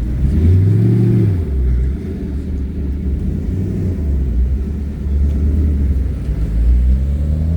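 Car engine rumbling low and steady, with a short rev that rises and falls about half a second in and another rising rev near the end.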